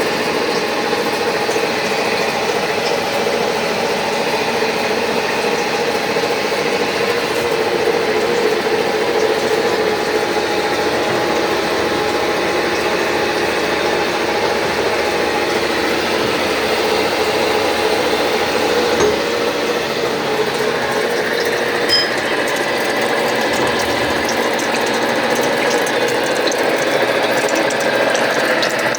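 Headstock gearbox of an Arad SNA 500x1000 metal lathe running steadily: a dense, even gear rattle with steady tones through it.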